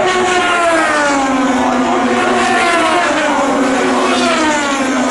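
IndyCar race cars' twin-turbo V6 engines at full speed, several engine notes overlapping, their pitch sweeping down and back up as cars pass and change gear.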